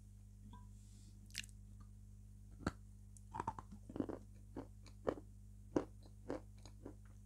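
A person chewing soft, milk-soaked food close to the microphone: irregular wet smacks and mouth clicks, with a low steady hum underneath.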